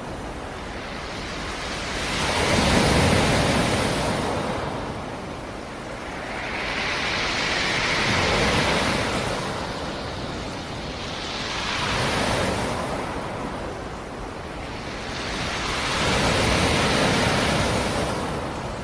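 Black Sea surf: waves breaking on the shore and washing back, four surges rising and falling about every four to five seconds.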